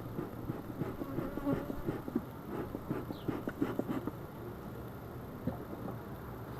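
Honeybees buzzing around a hive, with scattered light clicks and knocks over the first four seconds or so.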